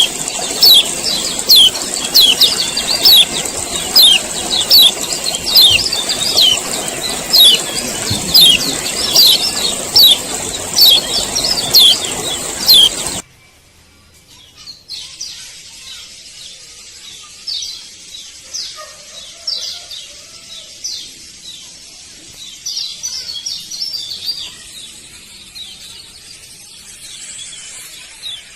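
Male kecial kuning (a yellow white-eye) giving its 'ciak ciak' call: a loud, fast series of sharp, falling chirps, about one to two a second. About halfway through it cuts off suddenly, and fainter, sparser chirps carry on after it.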